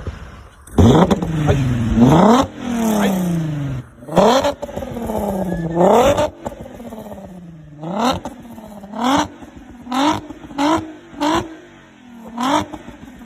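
VW Mk3 Jetta's swapped-in R36 3.6-litre VR6 engine being free-revved. A few long revs in the first six seconds are followed by a string of quick blips about once a second, each dropping back toward idle.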